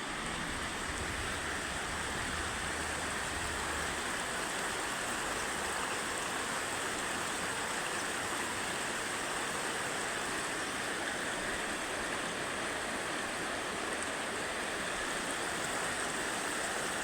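Running water rushing steadily, as of a stream.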